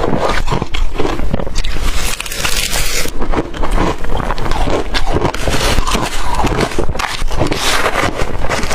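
Close-miked chewing of blender-crushed ice: dense, continuous crunching and crackling as the ice is bitten and ground between the teeth.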